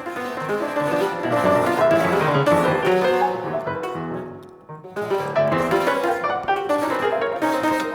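Piano playing dense, fast clusters of notes across the keyboard, thinning out to a short lull about four and a half seconds in before busy playing resumes.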